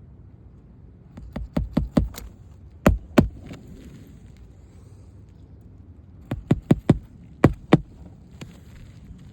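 Hammer driving roofing nails into a replacement asphalt shingle: two runs of sharp strikes, each quick series of blows followed by a couple of harder single blows.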